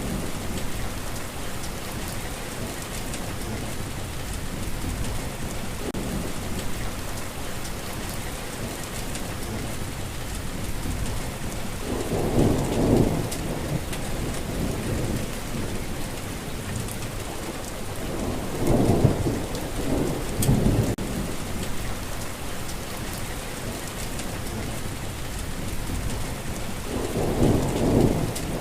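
Steady rainfall with three low rolls of thunder: one about twelve seconds in, a longer one a few seconds later, and one near the end.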